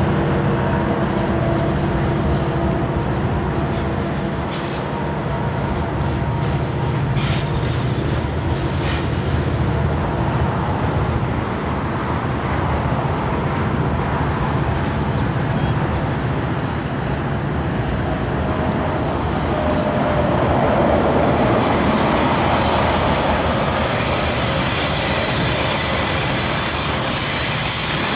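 Freight cars of a mixed freight train rolling around a curve: a steady rumble of steel wheels on the rails. High-pitched wheel squeal from the curve builds over the last several seconds.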